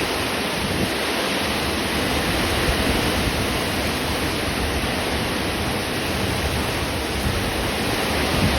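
Steady rain during a thunderstorm, an even hiss that keeps the same level throughout.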